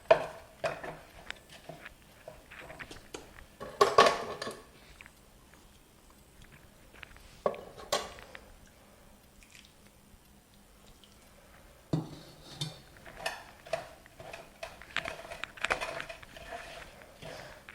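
Metal spoon clinking and scraping against a pan as semolina is stirred with ghee and sugar syrup, in scattered knocks. The loudest knocks come about 4 and 8 seconds in, and the clinking gets busier again after about 12 seconds.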